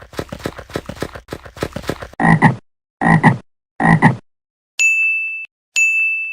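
Frog croaking: a rapid run of pulsed croaks, then three separate louder croaks. In the second half, three bright dings ring out about a second apart.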